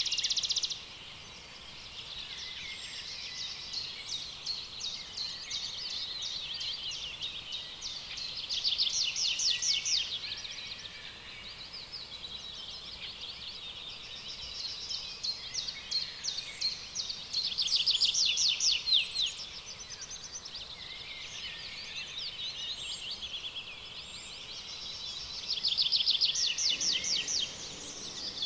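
Rainforest chorus of high-pitched, rapidly pulsing trills that runs on without a break, swelling into a louder trill about every nine seconds.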